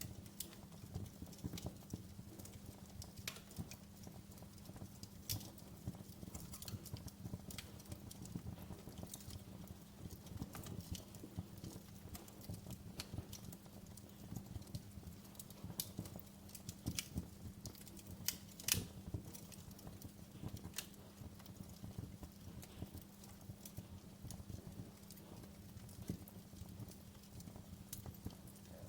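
Fireplace fire crackling: irregular sharp pops and snaps over a low steady rumble of the flames, with one louder pop about two-thirds of the way in.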